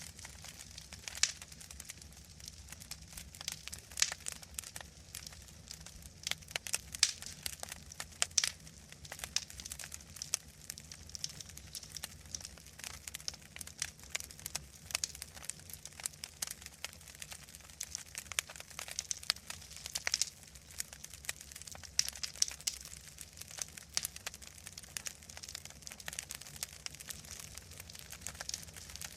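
Wood fire in a fireplace crackling: a steady stream of irregular small snaps with now and then a louder pop.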